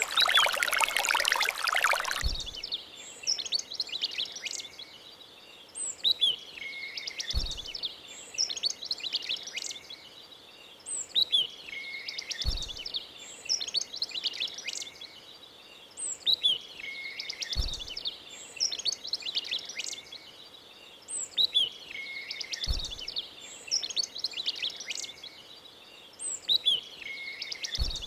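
Small birds chirping and calling in a repeating pattern that starts over about every five seconds, with a short low thump at each restart. About two seconds in, a rushing sound of pouring water cuts off suddenly.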